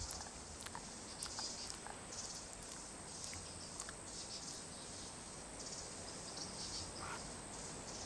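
Rainforest insects chirring in repeated pulses over a steady high whine, with scattered small clicks and a brief call about seven seconds in.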